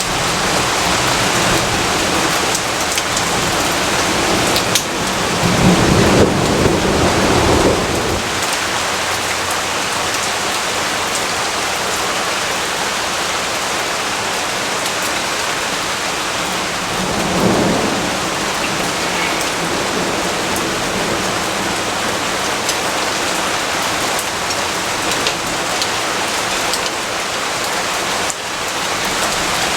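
Steady rain falling, with two low rolls of thunder: a longer, louder one about five seconds in and a shorter one past the middle.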